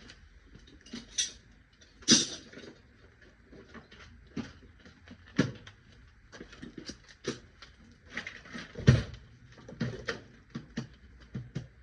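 Irregular clicks and knocks of objects being handled and set down, with sharper knocks about two seconds in and near nine seconds.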